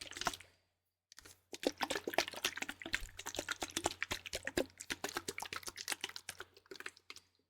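Liquid sloshing and splashing inside a plastic bottle shaken rapidly close to the microphone, with a short pause about a second in.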